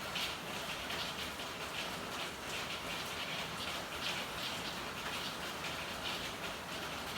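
Steady rain falling on hard surfaces: a constant hiss with irregular drops pattering through it.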